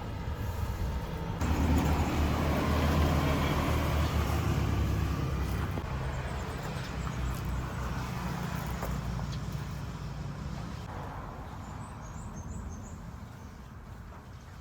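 A motor vehicle's engine passing close by. It grows loud about a second and a half in, then fades slowly away.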